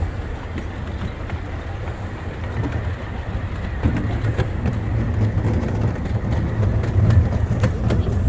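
Miniature steam train running on the Redwood Valley Railway, heard from the front car: a steady rumble of wheels on track, with sharp clicks over rail joints. It grows louder about halfway through.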